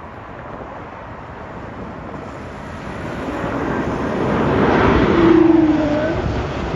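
Embraer E195-E2 jet on approach passing close by: the rush of its Pratt & Whitney PW1900G geared turbofans swells to a peak about five seconds in, then eases off. Near the peak a tone slides down in pitch as the plane passes.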